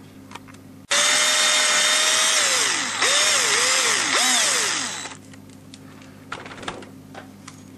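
Small high-speed electric power tool drilling out a screw hole in a 3D-printed plastic part, for about four seconds. Its motor whine sags in pitch several times as the bit loads up in the plastic, then it stops.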